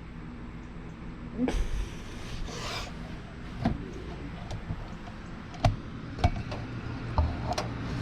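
Hand tools and metal engine parts being handled: two scraping rubs, then a few sharp knocks spread over the following seconds.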